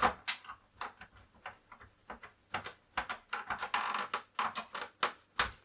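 Irregular clicks and knocks of a Commodore 64's plastic case being handled and screwed together, with a short rasping stretch about three and a half seconds in.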